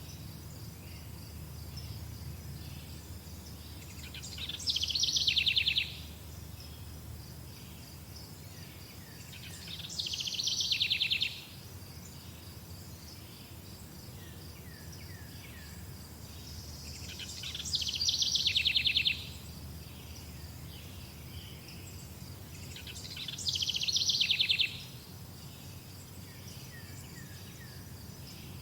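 A songbird sings the same short phrase four times, about every six seconds, each time rising in loudness into a fast trill. Under it, insects chirr steadily, with a low background rumble.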